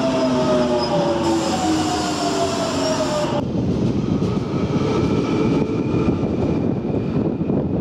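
An electric train's motors whine down in pitch as it slows. About a third of the way in the sound cuts abruptly to a London Underground Jubilee line tube train running out along the platform: a steady rumble of wheels on rail with a faint high whine.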